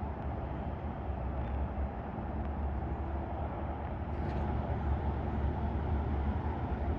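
Steady outdoor background noise: a deep, even rumble with a softer hiss above it, slowly getting a little louder, with no distinct events.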